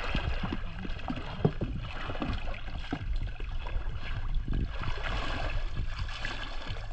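Flowing river water, with a steady rush and low rumble, broken by many small splashes and sloshes as hands work in the shallow water.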